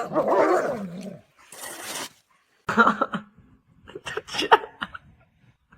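A dog vocalizing: a wavering, pitched call about a second long at the start, then several shorter sounds.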